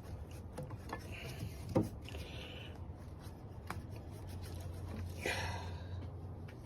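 Hand-work noises as parts are refitted: rubbing and scraping, with two sharp clicks and a longer scratchy swish near the end, over a steady low hum.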